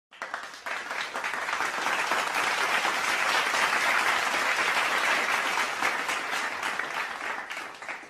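Applause sound effect: a crowd clapping, swelling in over the first second, holding steady, then fading away near the end.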